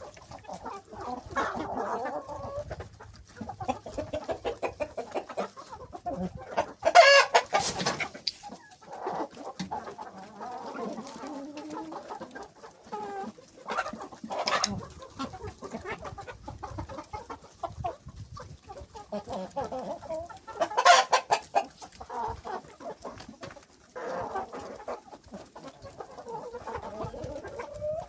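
Chickens clucking continuously, with two loud, sharp calls, one about seven seconds in and another about twenty-one seconds in.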